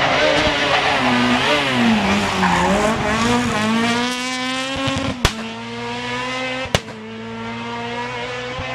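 A rally car's engine working through a corner: its pitch dips and climbs, then rises and holds a steady high note as the car pulls away. Two sharp bangs cut through, about five and about seven seconds in.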